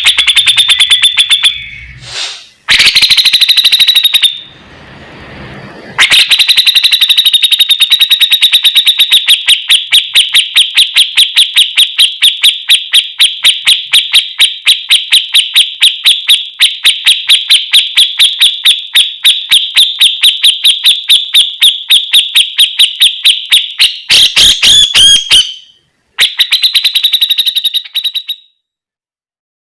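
A fighter bird's song: a long, fast trill of sharp, high-pitched repeated chirps, several a second, broken by short pauses and stopping shortly before the end. It is a masteran recording used to teach captive songbirds this song.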